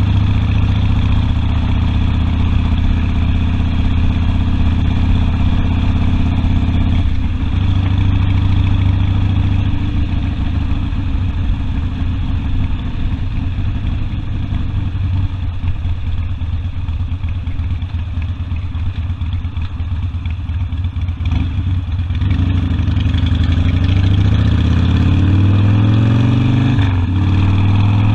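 Harley-Davidson Sportster's V-twin engine running under a rider at a steady road speed. Late on, its pitch rises with acceleration, drops sharply near the end as the rider shifts gear, and then climbs again.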